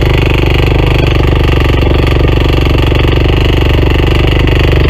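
Honda CT125's single-cylinder engine labouring under load on a steep climb, with a loud, rapid, even metallic knocking from inside it and little power. The riders took the knock for a rod bearing, but the fault was a faulty piston with a misaligned valve.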